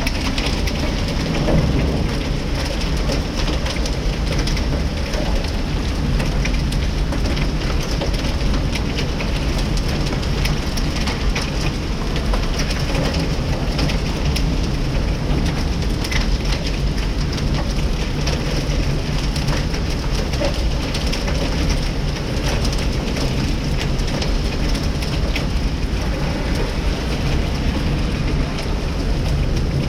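Heavy rain and hail pelting down in a strong storm: a dense, steady hiss of rain full of small clicking hailstone impacts.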